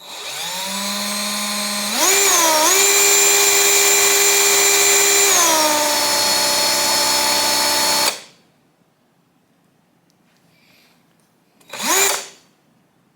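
Electric drill spinning the speedometer drive of a 1971 Honda SL125 to test the speedometer. The motor whine winds up, jumps to a higher speed about two seconds in, runs steady, eases off slightly and stops at about eight seconds. A brief rev near the end speeds up and dies away again.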